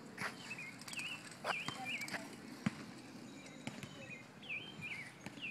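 Bird chirping: short high notes that dip and rise in pitch, in small groups of two or three, with a few faint clicks.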